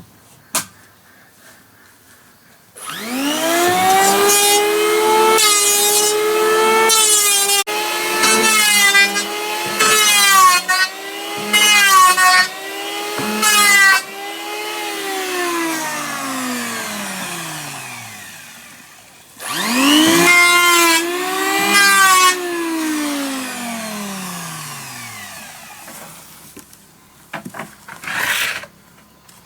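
Electric hand planer motor whining up to speed, dropping in pitch five or six times as it bites into the wood, then coasting down with a long falling whine after it is released. It is run a second time about halfway through, briefly, and winds down again.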